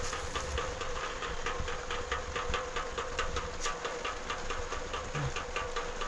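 Steady mechanical clicking, about seven clicks a second, over a constant hum.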